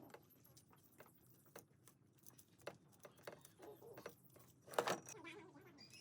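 Faint, scattered clicks and light knocks, with one louder clatter about five seconds in.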